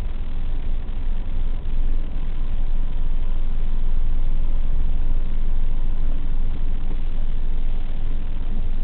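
Steady low engine rumble of a vehicle idling at a standstill, heard from inside its cabin, growing a little louder about two seconds in as traffic passes alongside.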